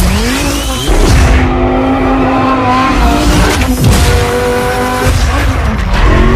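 Lamborghini Huracán's V10 engine revving hard under acceleration, its pitch climbing, holding, then dropping and climbing again after a gear change about four seconds in.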